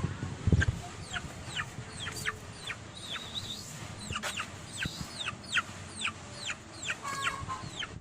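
Chicks peeping: many short, high calls, each falling sharply in pitch, several a second, with a lower call near the end and a low thump about half a second in.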